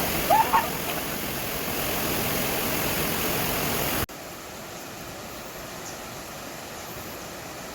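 Waterfall rushing steadily, with a short rising whistle-like sound near the start. About four seconds in it cuts off abruptly to a quieter, even rush of water.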